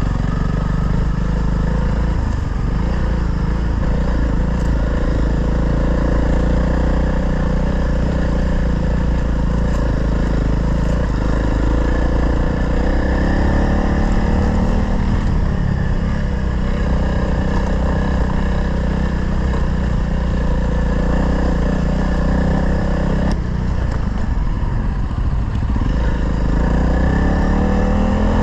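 Single-cylinder dual-sport motorcycle engine running under load on a rough climb, its pitch rising and falling with the throttle. There is a sudden change in the sound a few seconds before the end, then the revs rise.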